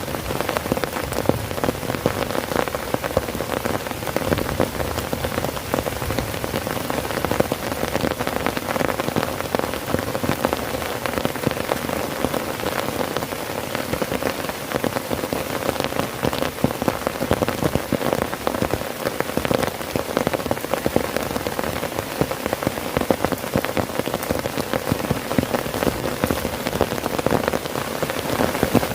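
Heavy rain falling steadily on a tent, a dense, even patter of countless drops hitting the fabric.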